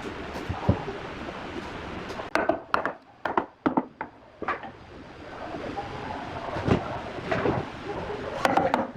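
A series of sharp knocks and clatters over a steady background noise. They come in a quick cluster a couple of seconds in, then a few single knocks near the end.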